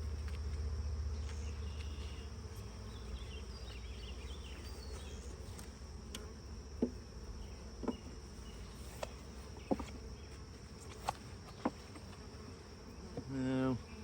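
Honeybees humming steadily around an opened hive during an inspection, with a few short, sharp clicks in the second half.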